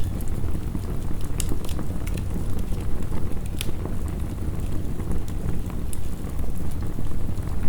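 Wood fire crackling in a fireplace, with sharp pops scattered irregularly throughout, over a steady low rumble of heavy rain.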